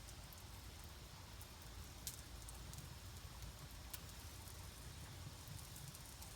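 Small fire-starter flame burning, with faint scattered crackles and a couple of sharper pops over a low steady rumble.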